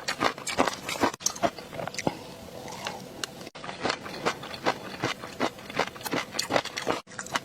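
Close-miked ASMR eating: rapid crisp bites and wet chewing, several sharp clicks and crunches a second, broken by a few abrupt cuts.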